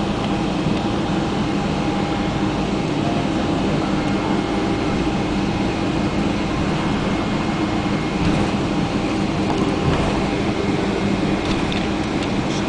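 Steady cabin noise inside a Boeing 777-200ER taxiing: the engines at idle and the air conditioning give an even drone with a low rumble and a few steady hums. A few faint clicks or rattles come in the second half.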